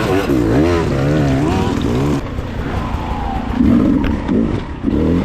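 Dirt bike engine revving, its pitch rising and falling repeatedly as the throttle is worked, with an abrupt change about two seconds in and more revving after it.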